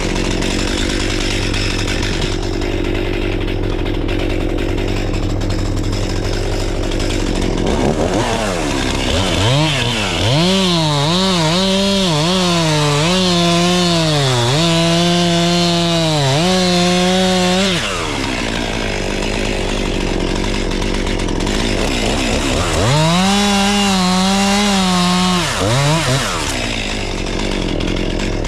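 Chainsaw idling, then revved up and held high for about nine seconds, its pitch dipping and recovering under load as it cuts. It drops back to idle and is revved again for a few seconds near the end.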